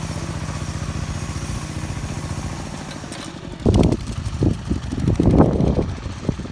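Engine of a homemade motoblock-based mini tractor running steadily, dropping away a little over three seconds in. After that come irregular loud low rumbles and thumps.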